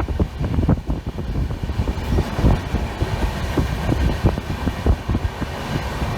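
Indian Railways train running on the track: a steady low rumble with a quick, irregular clatter of knocks from the wheels and carriages.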